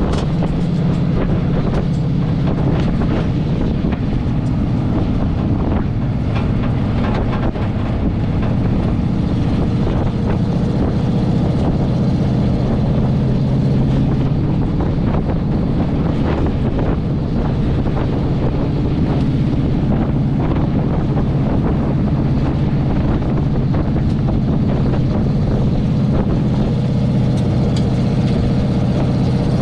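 Chevy 350 small-block V8 in a 1980 K20 pickup running steadily under load while towing a heavy trailer, with a low, even drone through glasspack exhaust.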